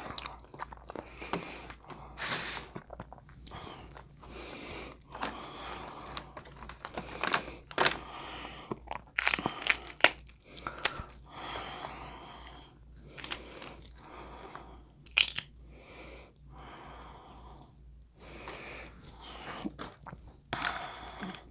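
Boiled crab legs being cracked open and eaten close to the microphone: shells crunching and snapping in irregular bursts, with meat tearing and chewing between. Several sharp snaps stand out.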